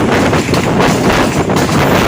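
Passenger train running at speed, its running noise mixed with heavy wind buffeting the microphone in uneven gusts.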